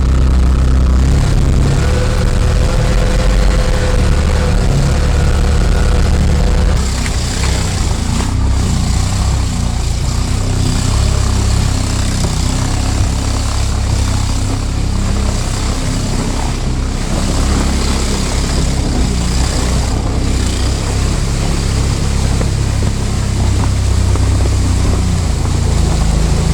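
Engine of an all-terrain vehicle running steadily under load, with a deep, even drone. From about seven seconds in a hiss joins it.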